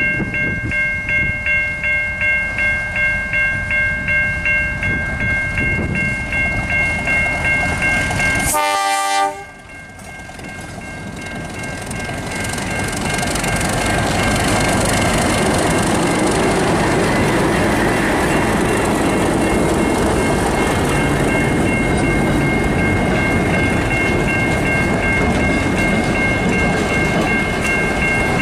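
Steady ringing warning tones pulsing about one and a half times a second, typical of level crossing bells. After an abrupt break about nine seconds in, the noise of a train passing on the rails swells and carries on steadily, with the ringing still faintly under it.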